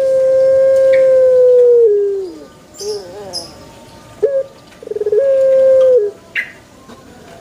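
Male Barbary dove (burung puter) cooing: a long held coo about two seconds long that slides down in pitch at its end, a short wavering note, then a rolling trill that runs into a second held coo. A few brief high chirps sound in the middle.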